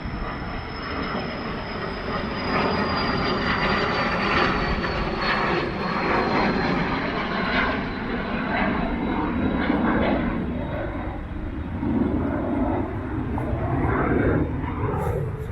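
Airplane passing overhead: steady engine noise with a high whine that slowly falls in pitch.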